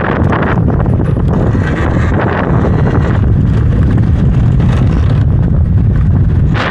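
Wind rushing over the microphone on a Talaria electric dirt bike ridden along a trail, a steady loud rumble.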